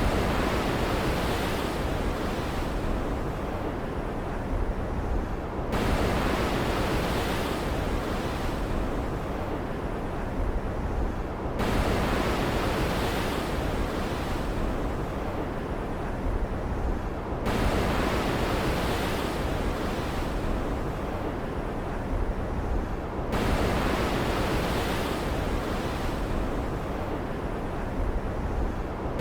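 Ocean surf with a steady hiss, a wave surging in about every six seconds, each one starting abruptly and fading out slowly, in an even, repeating pattern.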